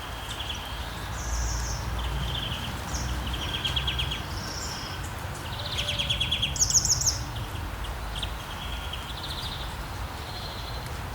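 Steady rain falling while songbirds chirp over it: a run of short trilled chirps and calls, the loudest a high, rapid trill about six to seven seconds in.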